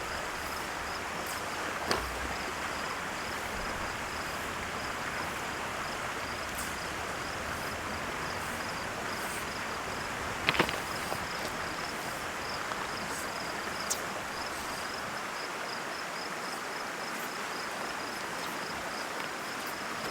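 Steady rush of a mountain river over rocks, with insects chirping in a fast, even pulse above it. A few sharp clicks stand out, the loudest a quick double click about halfway through.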